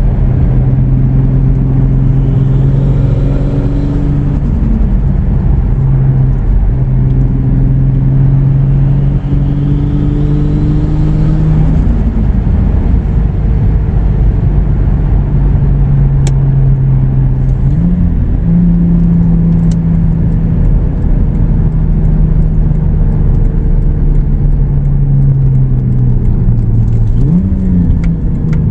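Turbocharged 2JZ inline-six in a Lexus IS300 under way, pulling and rising in pitch twice with a rising turbo spool whine above it, then cruising steadily. Brief quick rev blips come about two-thirds through and again near the end.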